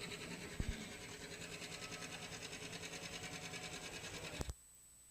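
John Deere 830's two-cylinder diesel engine running with an even, rhythmic pulse at about six beats a second. There is a knock about half a second in and another just before the sound cuts off abruptly near the end.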